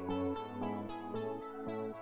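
Soft background music: gentle new-age style instrumental with evenly spaced plucked notes, fading slightly.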